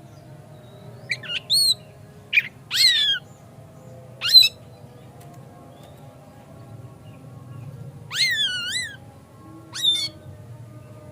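Oriental magpie-robin (kacer) giving a string of short, separate whistled calls, several falling in pitch, with a longer wavering call about eight seconds in.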